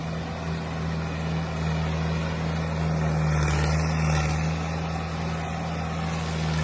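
Tractor diesel engine running steadily with a low, even drone, with a brief swell of hiss about three to four seconds in.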